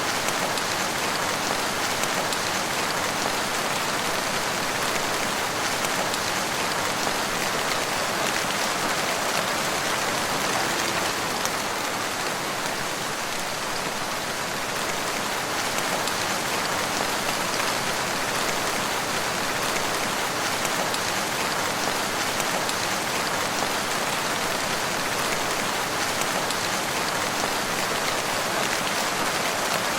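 Steady rain falling, a dense even patter of raindrops on foliage and ground.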